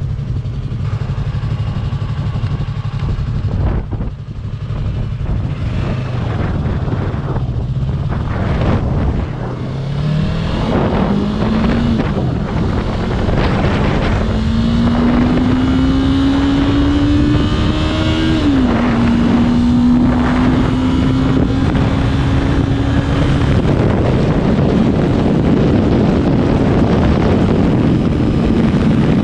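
Motorcycle engine running at a low steady note, then pulling away about nine seconds in and accelerating. Its pitch climbs and drops back at gear changes, about twelve and eighteen seconds in, then holds steady at cruising speed. Heavy wind rush runs over the microphone throughout.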